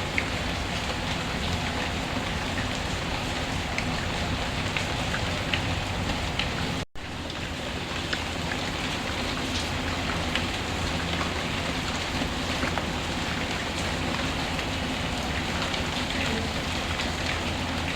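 Steady heavy rain falling, with scattered small drop ticks. The sound cuts out for a split second about seven seconds in, then resumes.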